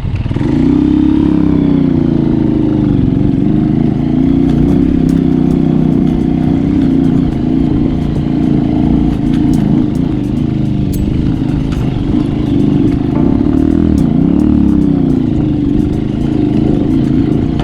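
Motorcycle engine running steadily under way, its pitch dipping and rising again a few times as the throttle changes.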